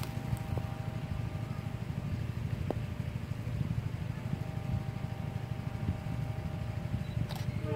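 Steady low rumble of a train running, with a faint steady hum above it.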